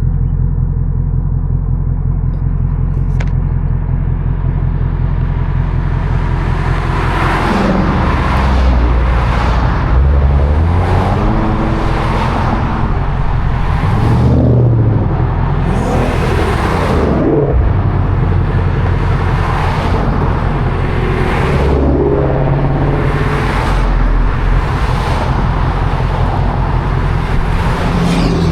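A vehicle driving on the road: a steady low engine and road drone, with short whooshes coming every second or two from about seven seconds in.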